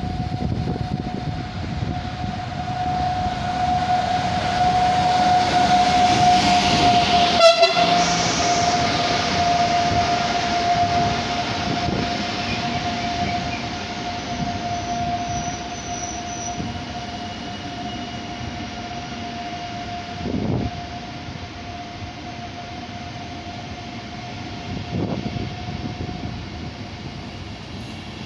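Intercity train hauled by an EU44 Husarz (Siemens Taurus) electric locomotive running through the station. A steady rumble of wheels on rail carries a steady high tone that dips slightly in pitch as the locomotive passes, about seven seconds in, which is the loudest moment. The coaches then run by more quietly, with two knocks later on.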